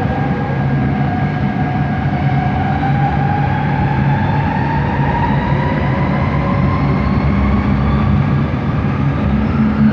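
Bombardier Innovia ART 200 train's linear induction motor drive whining from inside the car, a rising whine climbing steadily in pitch as the train gathers speed, over a steady running rumble.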